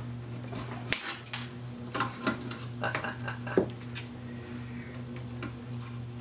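Small metal parts and tools clinking and rattling as they are handled, in a string of light, irregular clicks, over a steady low hum.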